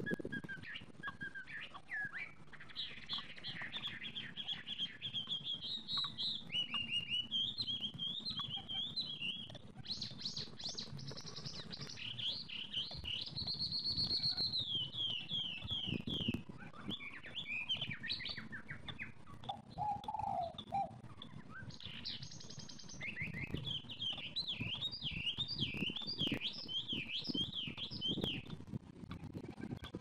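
Birds chirping and calling: rapid series of short, high notes and trills, with one longer held whistle about halfway through.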